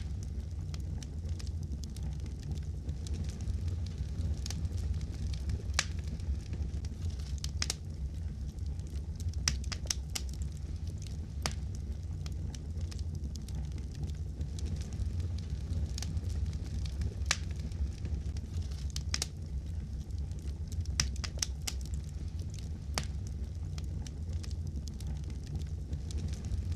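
Wood fire crackling in a fireplace: scattered sharp pops and snaps at irregular intervals over a steady low rumble of burning.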